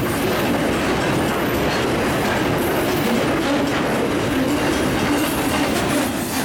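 Loaded mineral sand hopper wagons of a freight train rolling past, a steady loud rumble and clatter of steel wheels on the track. The sound drops suddenly near the end.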